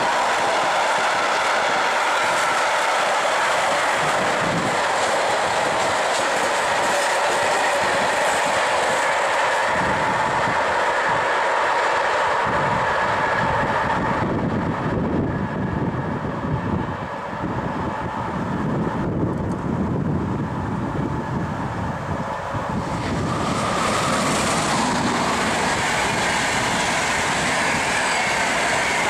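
Container freight wagons rolling past close by: a steady rumble of wheels on rails with clickety-clack over the rail joints. About halfway through it changes to a deeper, heavier rumble of another train on the tracks, and near the end passenger coaches roll past.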